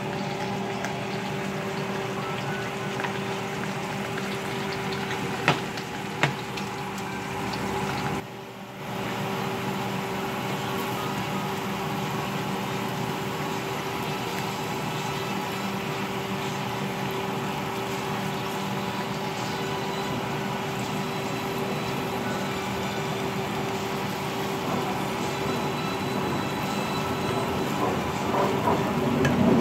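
Potato and sweet potato slices frying in oil in a skillet: a steady sizzle with a low hum underneath, growing louder near the end. Two sharp clicks about five and six seconds in.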